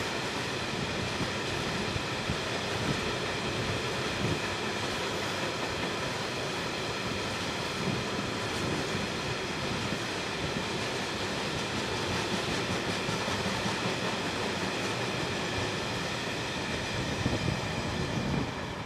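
A long rake of empty open box engineering wagons rolling past on the main line. The wheels on the rails give a steady running noise with a thin high ringing over it and the odd knock, stopping abruptly near the end.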